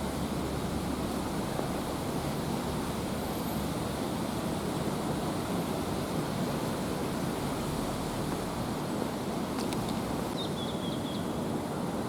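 Steady, even rush of road traffic noise from surrounding roads, with a few faint high chirps about ten seconds in.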